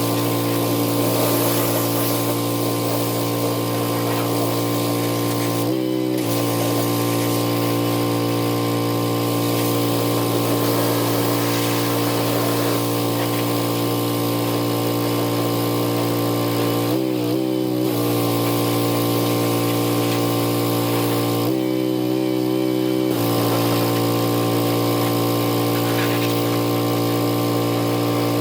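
Pressure washer running and spraying steadily. Three times, about 6 s in, around 17 s and around 22 s, the spray cuts out briefly and the machine's pitch wavers before the spray resumes.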